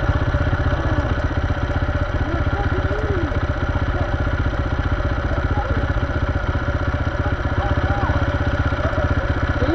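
Dirt bike engine idling steadily, an even, fast pulsing without revs.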